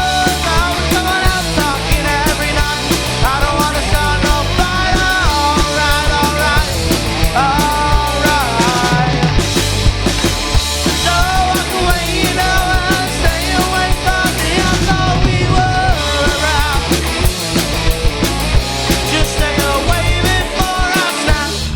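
A live rock band playing loud, distorted punk-rock music: drum kit, guitars and bass, with a melodic lead line on top.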